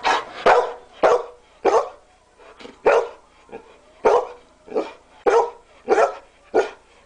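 A dog barking repeatedly at a steady pace, about a dozen sharp barks, roughly one every half second or so.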